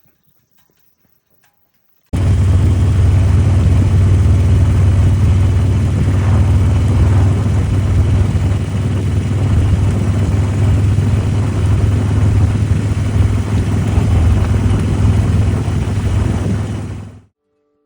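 Harley-Davidson V-twin motorcycle engine running steadily while riding. It starts suddenly about two seconds in and cuts off near the end.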